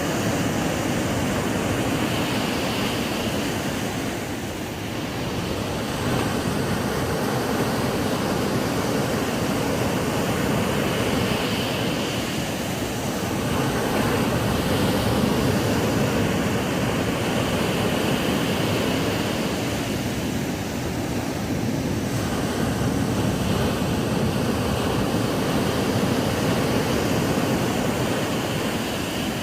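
Ocean surf washing onto a sandy beach: a steady rush of breaking waves that swells and eases every several seconds.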